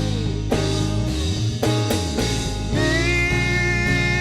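Church praise band music between sung phrases: sustained chords with a few drum strokes, and a new held note coming in about three seconds in.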